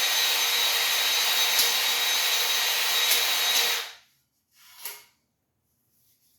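Electric drill spinning a cylinder hone in an engine bore, running steadily with a motor whine, then shut off about four seconds in; a brief short sound follows.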